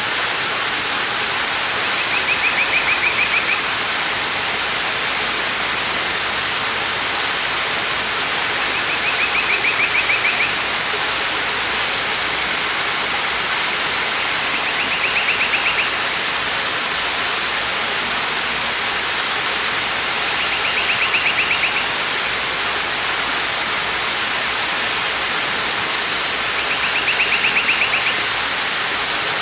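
Waterfall's steady rush of falling water. A short, high trill of rapid pulses sounds over it five times, about every six seconds.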